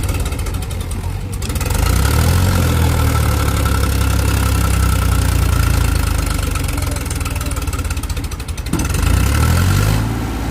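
Powertrac Euro 50 tractor's three-cylinder diesel engine running while ploughing a field. The engine note rises and grows louder about two seconds in, sags briefly near the end, then rises again.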